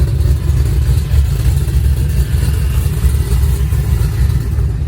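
Steady low rumble of a truck driving, engine and road noise heard from inside the cab.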